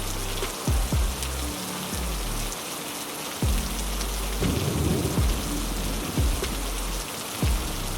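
Heavy rain falling steadily, with loud drops thudding on a nearby surface every second or so.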